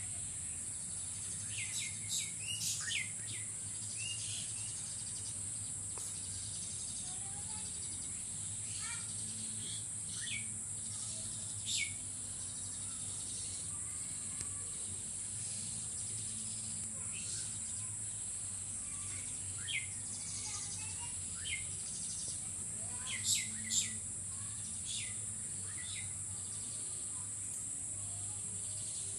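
Birds chirping in short downward-sweeping calls, scattered and sometimes in quick clusters, over a steady high-pitched insect drone.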